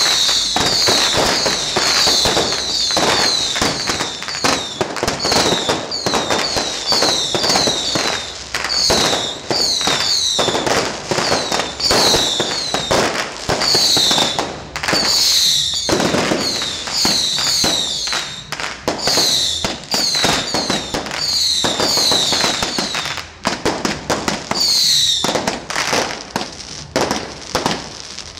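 Fireworks going off: dense crackling and popping with many short high whistles that fall in pitch, one after another.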